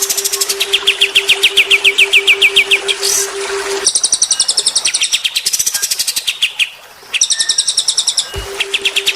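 Songbird singing fast runs of sharp, evenly repeated high notes, about eight to ten a second, in phrases of a few seconds that break off and restart. A steady low hum runs under the first phrase, stops about four seconds in, and comes back near the end.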